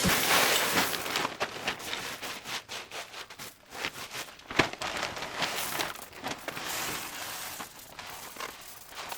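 Rustling, crinkling handling noise with scattered light clicks and knocks, one sharper knock about halfway through.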